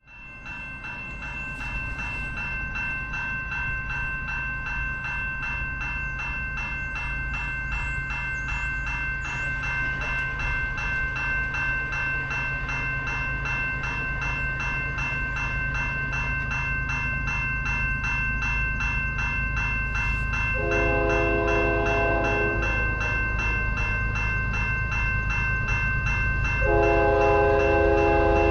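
Railway crossing bell ringing steadily as a train approaches, with the rumble of the train slowly growing louder. The locomotive's multi-chime horn sounds one long blast about two-thirds of the way in, and a second blast begins near the end: the crossing signal sounded for a level crossing.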